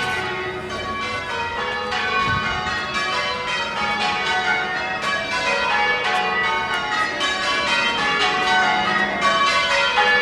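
Church bells ringing changes: a continuous, rapid sequence of bell strikes, each one ringing on into the next.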